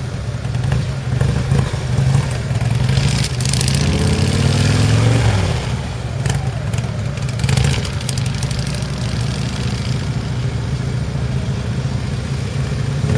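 Heavy V-twin cruiser motorcycle engine running at low speed through a tight cone weave, steady and low, with the revs rising briefly about four seconds in before settling back.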